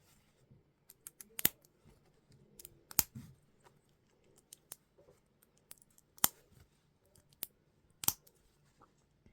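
Plastic Lego pieces being handled and snapped together: irregular sharp clicks, four of them louder than the rest, with lighter taps in between.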